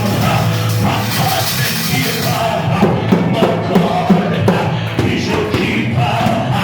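Loud praise music in church, with a steady bass and sharp drum hits coming in a few seconds in, and the congregation shouting praise over it.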